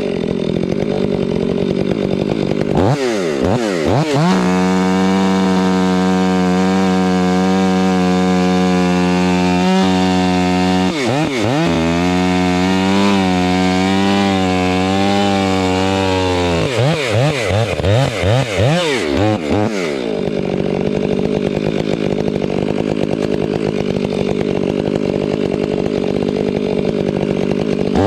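Chainsaw engine revving up and down, then held at full throttle for about twelve seconds with a brief dip partway, as in a cut through wood, before dropping back and revving unevenly again.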